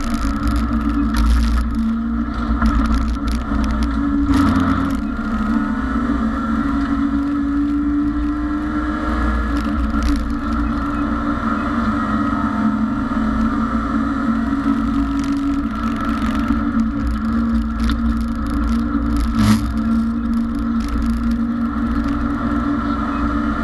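BMW E30 race car's engine heard from inside the stripped cabin, running at a near-constant speed with little change in pitch, over a steady low rumble of road and wind. A few short rattles and knocks from the cabin come through now and then.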